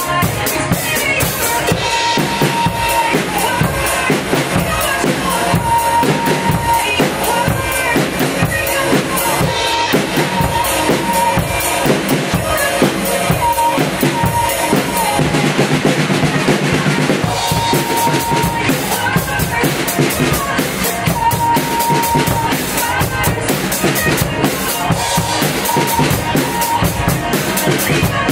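Drum kit played along to a pop song's backing track: kick, snare and cymbals over the recorded music. A little past halfway the cymbals drop out for a couple of seconds, then the full beat comes back.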